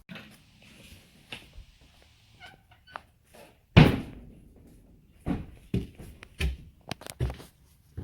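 Footsteps thudding on wooden stairs and a platform, with one loud thump about four seconds in, then a run of steps about two a second.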